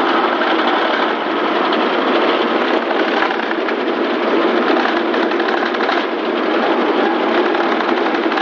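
Banana-stem chopping machine running steadily, its spinning blades shredding banana stalks in a dense, continuous rattle of cutting.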